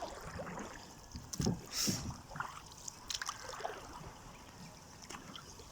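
A small boat moving quietly on marsh water, with a few soft splashes and light knocks against the hull.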